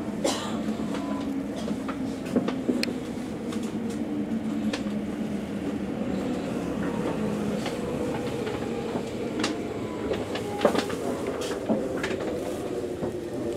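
Electric commuter train heard from behind the driver's cab as it pulls out of a station: a steady running hum with scattered sharp clicks and knocks from the wheels on the track.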